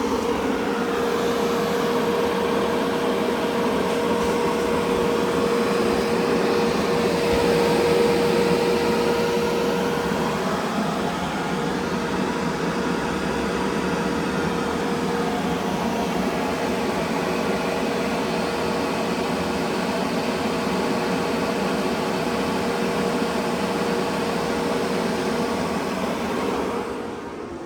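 Enclosure heat-pump air conditioner running steadily: an even fan whoosh with a steady hum through it. The unit sounds nice and quiet, with no surprises. The sound drops away just before the end.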